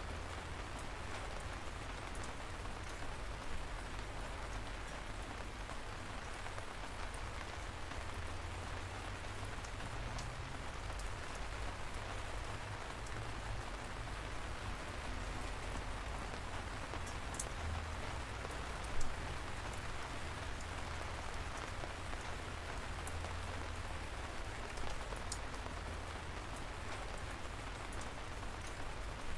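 Light rain falling steadily: an even, soft hiss of drizzle with scattered individual drops ticking, and one louder drop about two-thirds of the way through.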